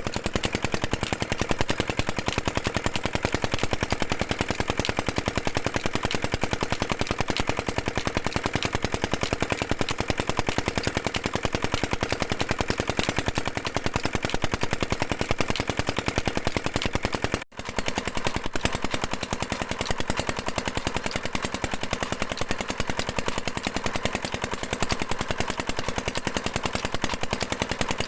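Single-cylinder China R180 diesel engine running steadily, its exhaust beats coming rapid, sharp and even; the sound breaks off for an instant a little past halfway.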